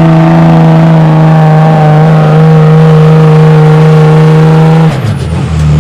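Pulling truck's engine held at full throttle at a steady high pitch while it drags the weight sled, then backing off abruptly about five seconds in as the truck bogs down.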